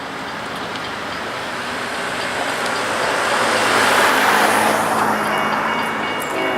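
A train passing close by: the rush of the locomotive and wheels swells to its loudest about four seconds in, then eases. Just before the end a locomotive horn begins to sound.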